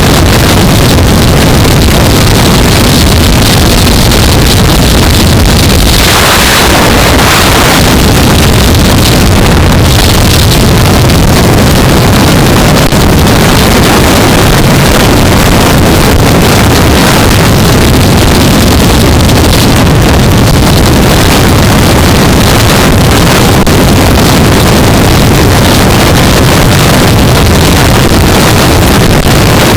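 Loud wind rush on a helmet-mounted camera at riding speed, over the steady drone of a 2015 Yamaha R3's parallel-twin engine. A stronger rush of noise comes briefly about six seconds in.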